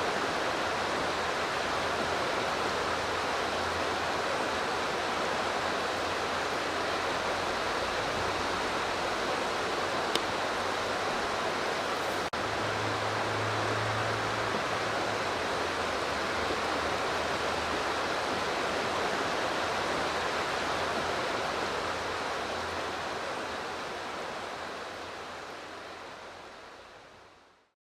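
Steady rush of flowing river water, an even noise that holds level and then fades out over the last few seconds, with a single faint tick about ten seconds in.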